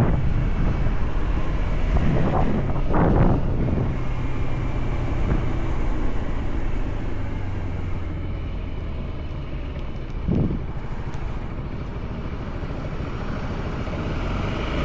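Motorcycle engine running under way, with wind buffeting the microphone.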